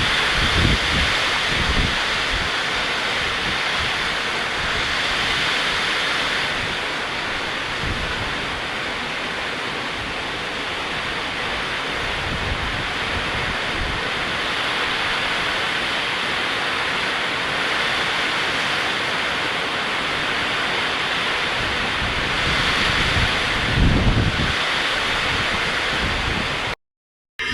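Heavy rain pouring steadily, with gusts of wind buffeting the microphone now and then. The sound cuts out for about half a second near the end.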